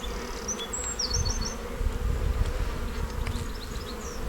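Honeybees buzzing as a steady hum around an opened hive during a frame inspection.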